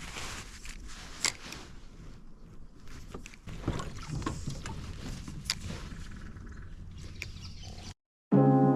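On-water sounds aboard a fishing kayak: scattered knocks and handling noises over a low wind rumble. Near the end it cuts to a moment of silence, then music begins.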